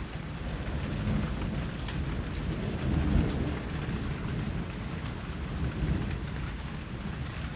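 Steady rain falling, with a low rumble of thunder that swells to a peak about three seconds in and then fades back.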